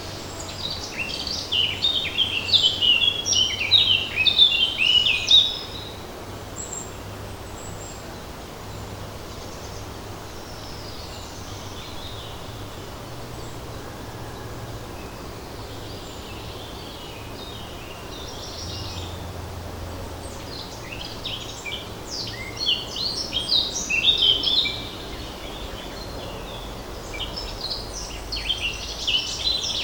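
A songbird singing three bursts of rapid, high chirping notes, each a few seconds long: one at the start, one about twenty seconds in, one near the end. A faint low steady hum runs beneath.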